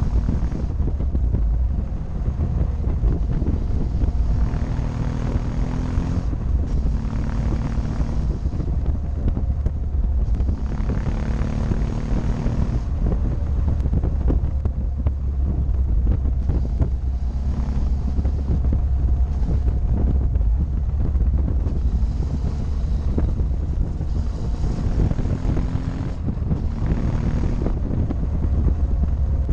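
Motorcycle engine running under way, its note rising and falling repeatedly, over a heavy rumble and wind rushing past the microphone.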